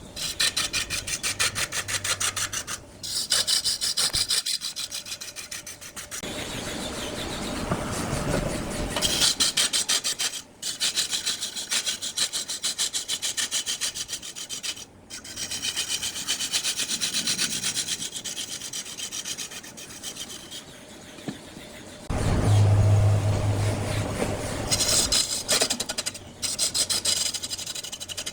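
A lathe spinning a wood block while a turning tool scrapes and cuts it, giving a rasping sound with a rapid, even pulsing. A low motor hum grows stronger about two-thirds of the way through.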